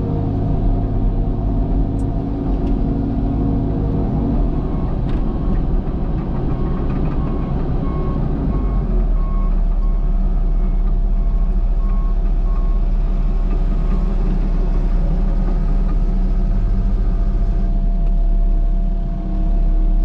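Cat excavator's diesel engine running steadily under work; its note drops about four seconds in. A backup alarm beeps in even pulses through the middle stretch.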